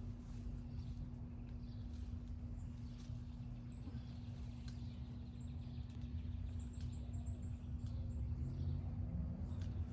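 Outdoor ambience: faint high bird chirps, with a quick run of them about seven seconds in, over a low rumble on the microphone and a steady low hum, with a few faint clicks.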